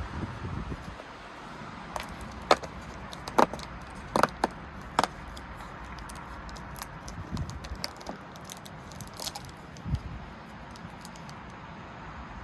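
Handling noise of small hard objects, most likely plastic toy or capsule parts: a run of sharp clicks and taps, most of them between about two and five seconds in, with a low thump near the end, over a steady hiss.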